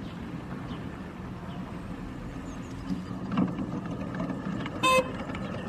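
A 5-inch gauge miniature railway train running, with a steady low hum, a knock about three and a half seconds in, and a short high beep near the end.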